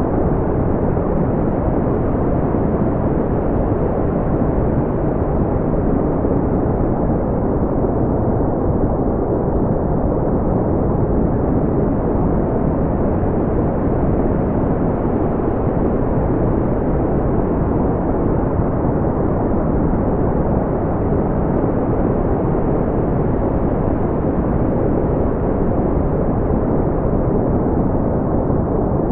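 Steady brown noise: an even, deep hiss with its energy in the low range and no high frequencies, smoothed so it stays unchanging.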